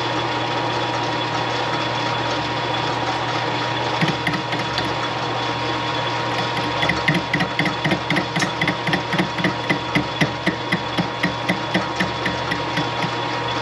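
Metal lathe running with a steady hum while a boring bar cuts inside a brazed-up mower spindle housing. From about four seconds in, the cut turns into a regular knocking, about three a second, as the tool strikes the high spots in the brazing.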